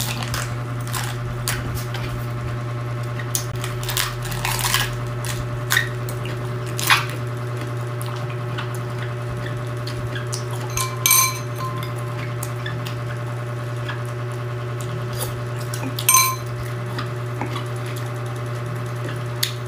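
A person chewing raw cabbage leaf close to the microphone, with crisp crunches, over a steady low hum. Twice, later on, a short ringing clink like dishware.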